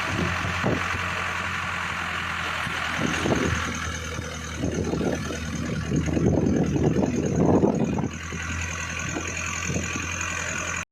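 A road vehicle on the move: a steady low engine hum under a constant hiss of road and wind noise, with irregular low rumbling surges.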